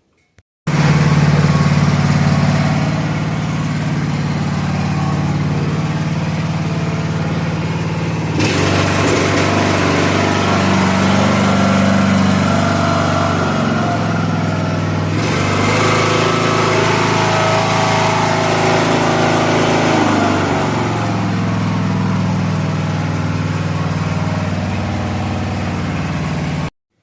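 Craftsman LT3000 lawn tractor's engine running steadily after repair. Its pitch dips and rises a few times, and a louder hiss joins it through the middle stretch.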